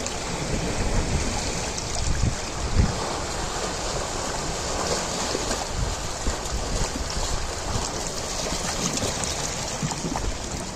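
Ocean waves washing on a shore: a continuous surf hiss that swells and eases, with uneven low rumbles underneath.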